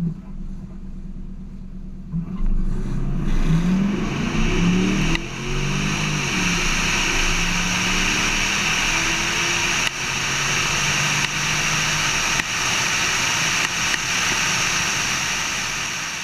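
Car engine accelerating hard from about two seconds in, its pitch climbing in several steps as it shifts up through the gears, then running steadily at speed with a strong hiss, fading near the end.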